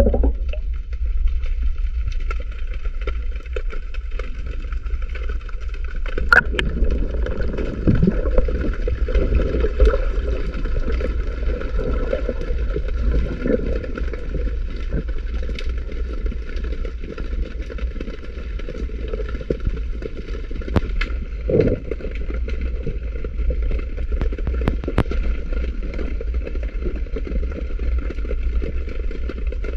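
Underwater ambience picked up by a camera in a waterproof housing: a steady low rumble with scattered clicks and knocks.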